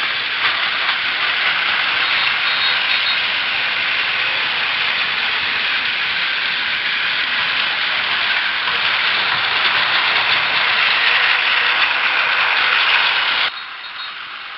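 Battery-powered Plarail toy trains running on plastic track: a steady, noisy running sound of small motors and wheels. It cuts off abruptly a little over 13 seconds in, giving way to a quieter sound.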